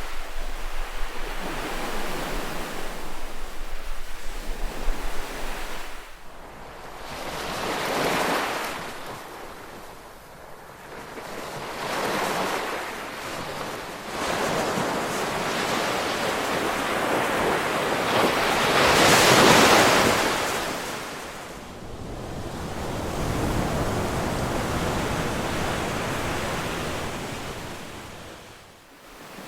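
Ocean waves breaking and washing up the shore in several surges that swell and fade, the loudest about two-thirds of the way through. Wind rumbles on the microphone for the first several seconds.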